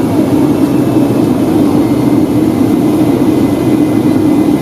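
Steady cabin noise inside a Boeing 757-200 in flight: a loud, even roar from its Rolls-Royce RB211 engines and the air rushing past the fuselage.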